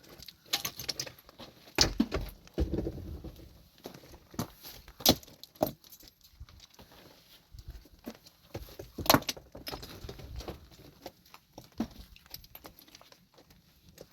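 Scattered sharp clinks and knocks of hard objects striking one another at irregular intervals, the loudest about 2, 5 and 9 seconds in.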